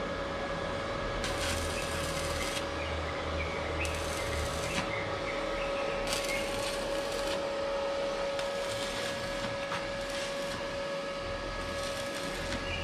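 A steady machine hum with a constant whine, broken by bursts of hiss every second or two.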